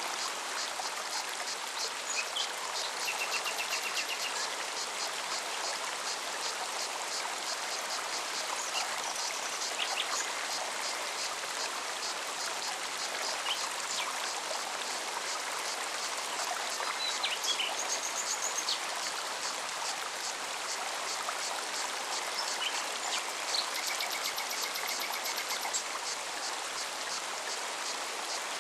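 Mountain forest stream running steadily, with a cicada's fast, even pulsing high above the water and brief bird trills and calls now and then, one about three seconds in and a couple more near the end.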